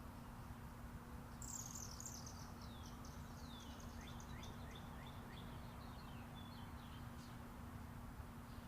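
A songbird singing a run of quick, mostly falling high chirps, starting about a second and a half in and lasting about five seconds. Underneath is the steady, distant rumble of interstate highway traffic.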